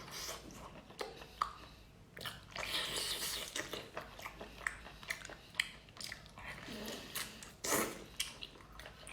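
A person chewing and eating close to the microphone, with irregular wet mouth smacks and small clicks.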